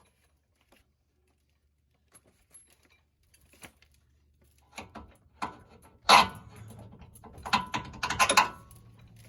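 Impact wrench on a lower control arm bolt: a few knocks, then short loud bursts of hammering with a whine in the second half as the bolt is broken loose and spun out.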